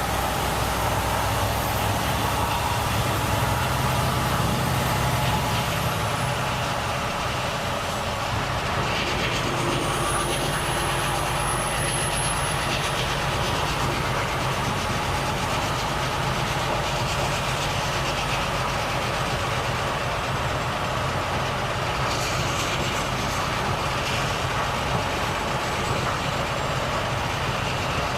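Volvo FH truck's diesel engine running steadily while the truck is driven, mixed with steady road and tyre noise. The engine note shifts about seven seconds in.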